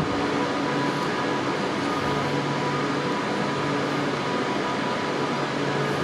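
Train at a station platform, a steady hum with several held tones over a broad rumble.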